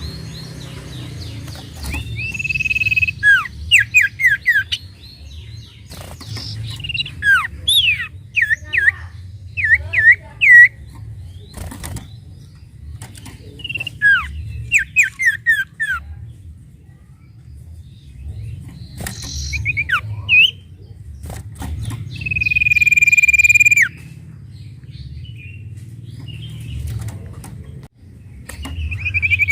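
Sirtu songbird singing: long clear whistles that end in a downward slide, alternating with quick runs of sharp down-slurred chirps. A low steady hum runs underneath, with a few sharp clicks.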